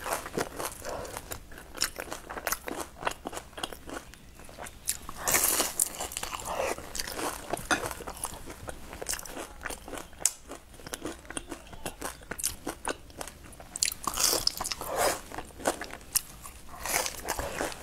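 Close-miked crunching and chewing of a crisp fried cake, many small crackles, with louder crunching bites about five seconds in and again near the end.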